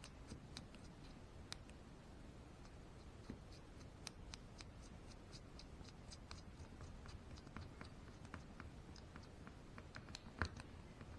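Faint, scattered small clicks and scratches of a screwdriver and small screws being worked into the plastic and metal parts of an RC truck's rear end, with one sharper click about ten and a half seconds in.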